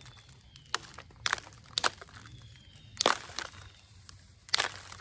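Percussion flintknapping on Onondaga chert: about five sharp, short strikes at irregular intervals, the loudest about three seconds in, knocking flakes off to remove a seam in the stone.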